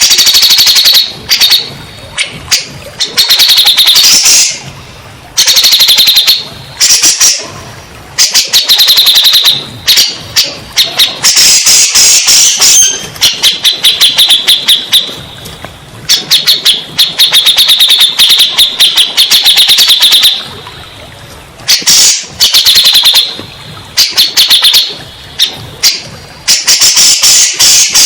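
Cucak jenggot (cak jenggot), a bulbul, singing loudly in repeated bursts of rapid, chattering notes, each a second or two long, with short pauses between. It is a recorded bait song of the kind played to draw a silent or stressed caged bird into answering.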